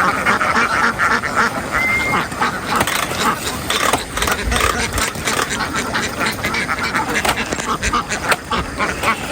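A large flock of ducks quacking all together in a dense, continuous din, with scattered knocks and scuffs among them.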